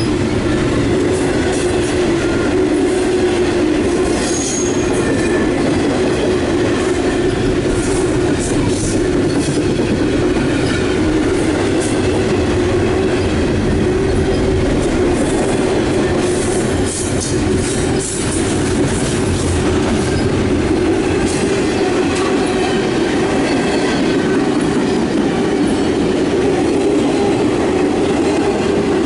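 Double-stack intermodal freight train's loaded well cars rolling past close by: a steady, loud rumble of steel wheels on rail, with scattered clicks and a few faint high wheel squeals.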